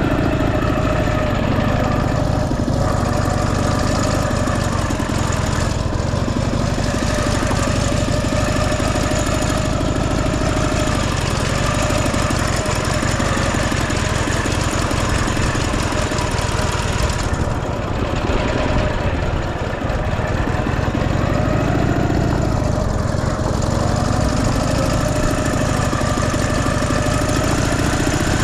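Motorcycle engine running steadily at low speed, its pitch wavering slightly.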